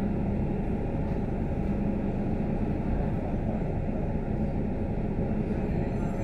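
Scania K310UD double-decker bus in motion, heard from on board: a steady low engine drone mixed with road noise.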